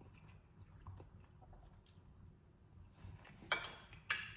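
Cutlery clinking against a dish twice near the end, each strike ringing briefly.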